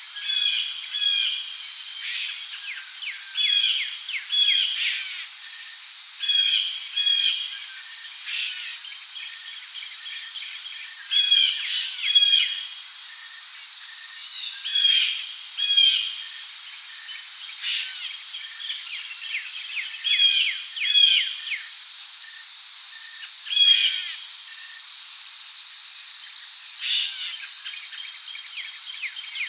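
Rainforest ambience: a steady high-pitched drone of insects such as crickets, with birds calling in short repeated chirps every second or two over it.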